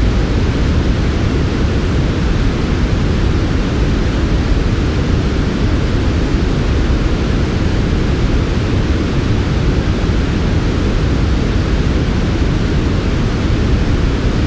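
Steady, smooth synthetic noise of a sleep-aid noise track, heaviest in the low end with a softer hiss above, unchanging throughout.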